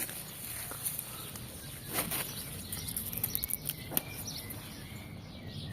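Dry black bean plants rustling, their pods crackling with irregular sharp clicks as they are handled during the harvest.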